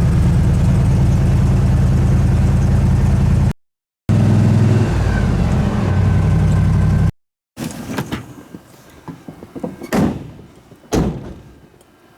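Chevrolet Suburban's engine running with a deep, steady drone, cut off abruptly twice. Then, more quietly, scattered knocks and two sharp thuds about a second apart near the end.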